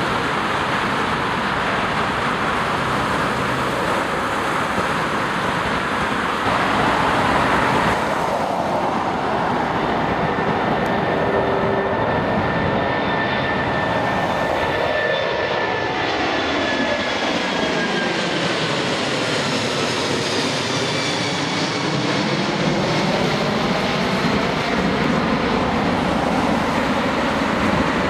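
Four jet engines of an Airbus A340 airliner, a loud, steady roar as it passes close by, with a high whine that slowly falls in pitch and a sweeping, phasing sound from about halfway on.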